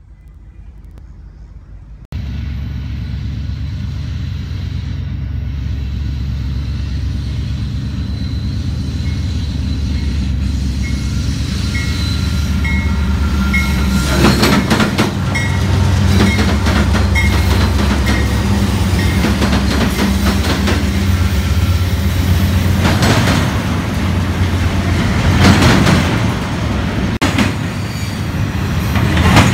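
Union Pacific diesel locomotives rumbling as they approach and pass, starting about two seconds in and growing louder. Then the double-stack container cars roll by, their wheels clicking over the rail joints.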